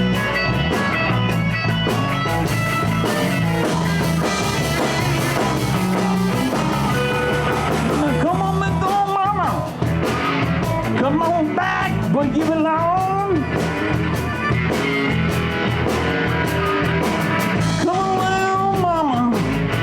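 Live electric blues band playing: bass, drums and guitar, with a lead line of bent, sliding notes coming in over the band about halfway through.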